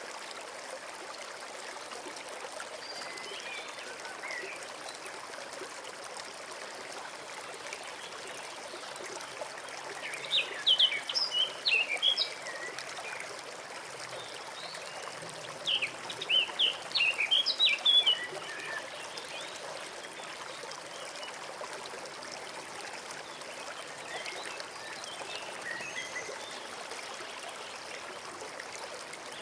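A forest stream trickling steadily, with a bird singing two loud bursts of quick, high chirps about ten and sixteen seconds in, and fainter chirps now and then.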